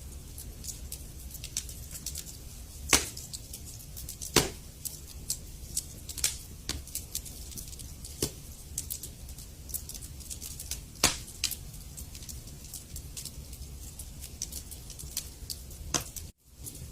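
Wood fire burning in a fireplace: logs crackling with irregular sharp pops over a steady low rumble, the loudest pops about three and four seconds in and again near eleven seconds. The sound drops out briefly just before the end.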